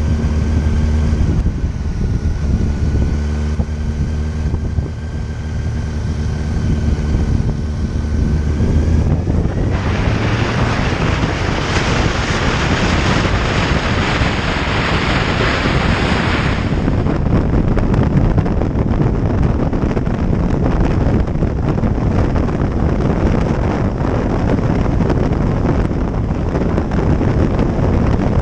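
Motorcycle engine running at a steady speed while riding, with wind rushing over the microphone. About a third of the way in, a loud hiss rises for several seconds; after it the wind rush covers most of the engine note.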